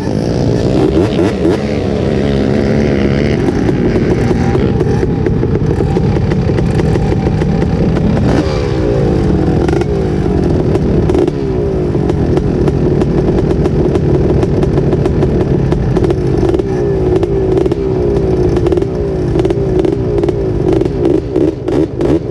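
Off-road engine running with the revs going up and down again and again, the sound of a quad or dirt bike being blipped and ridden.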